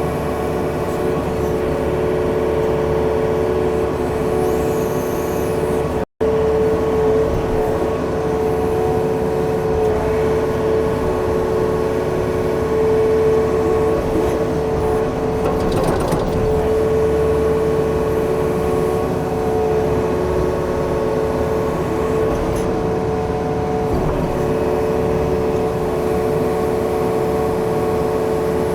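Yanmar excavator's diesel engine running steadily under work, with a strong steady whine over the engine noise. The sound cuts out for an instant about six seconds in, and there is a brief rough scraping patch around the middle.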